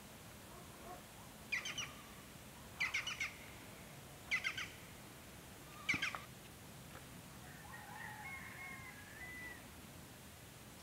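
A bird calling: four short bursts of rapid, sharp chattering notes, each about a second and a half after the last, followed by faint thin whistled notes near the end.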